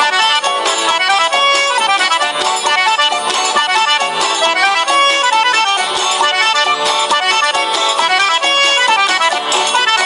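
Lively accordion-led traditional music with quick, busy notes, in the style of Brazilian festa junina forró.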